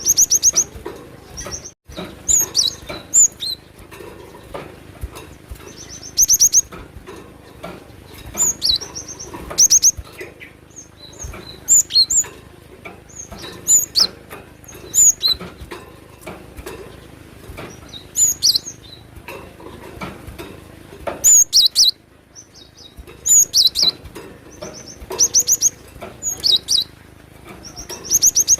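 Cinereous tit (glatik batu) singing: short bursts of high, rapidly repeated notes, one phrase every second or two.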